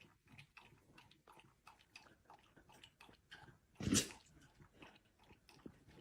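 A dog chewing: faint, irregular clicks and crunches, with one louder crunch about four seconds in.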